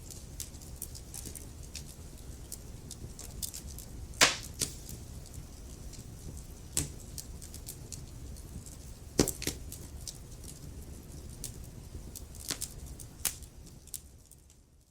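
Wood fire crackling: irregular sharp pops and snaps from the burning logs, the loudest about four seconds in and another around nine seconds, over a low steady rumble of the flames. The sound fades out near the end.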